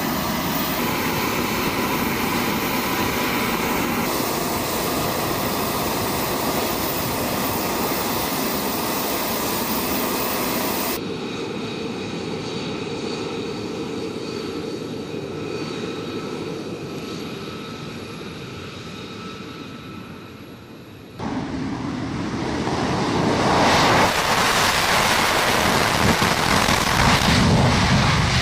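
F-35A Lightning II's single Pratt & Whitney F135 jet engine running, heard through several abrupt changes: a steady roar, then a fainter stretch that fades away, then about 21 s in the jet noise returns and builds to its loudest from about 24 s on, as for a departing aircraft under power.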